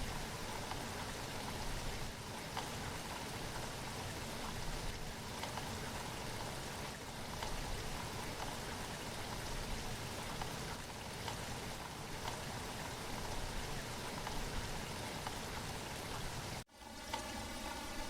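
Steady rain falling, with individual drops ticking through it. Near the end the sound cuts out for an instant and comes back with a slightly different tone, like a splice in a looped recording.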